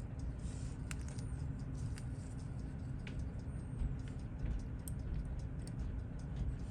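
Small metal watchmaking tools clicking and tapping on the parts of a Seiko 6139 chronograph movement during disassembly: faint, irregular ticks a few per second, over a steady low hum.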